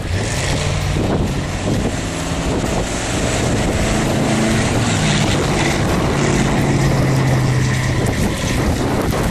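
A 2000 Ford Explorer's 5.0 litre V8 running under way, its pitch shifting up and down, over steady road and wind noise.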